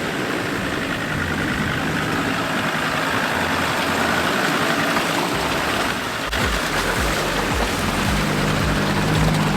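Off-road 4x4's engine running steadily as it drives a wet, muddy track, with a low regular thudding in the second half.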